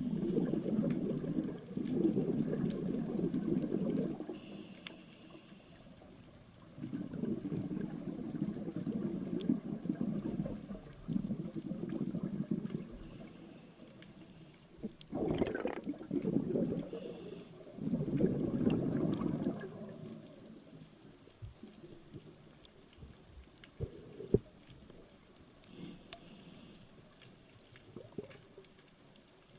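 Scuba diver breathing underwater through a regulator: exhaled air bubbles out in rushing bursts of two to four seconds, with a brief high hiss of the regulator on each inhale between them. The breaths stop after about two thirds of the way through, leaving faint water noise and small clicks.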